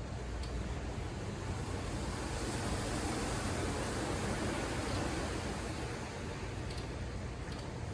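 Ocean surf: one wave's wash swells up about two seconds in and fades again, over a steady low rumble of the sea.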